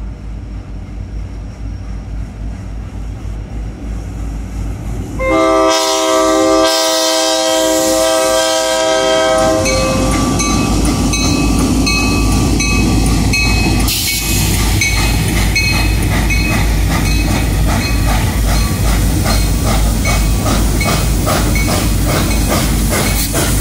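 A train's diesel locomotives rumble as they approach, and about five seconds in a multi-note horn blows one long blast of about four seconds. The diesels and steam locomotive 2102 then pass close by, with loud engine noise and a steady rhythm of wheel clicks over the rail joints.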